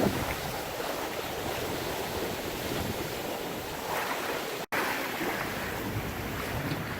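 Steady rush of wind and water along the hull of a sailboat running downwind, with wind buffeting the microphone. The sound cuts out for an instant about two-thirds of the way through.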